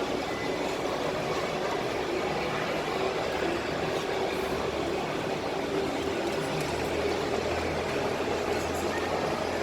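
Steady rushing noise of falling water from a large indoor waterfall, even and unbroken.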